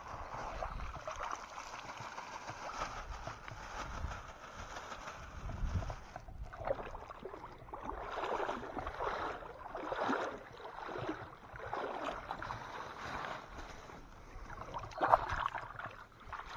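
Canoe paddles dipping into lake water, with water splashing and gurgling in repeated swells every second or two. There is a sharper splash near the end.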